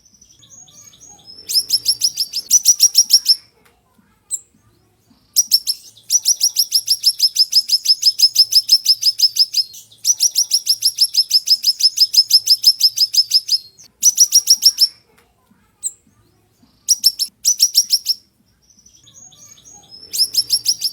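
A songbird known to Indonesian bird-keepers as siri-siri singing in rapid strings of sharp, high, repeated notes, about nine notes a second. The song comes as short bursts and two long runs of several seconds each, with brief softer twittering between them.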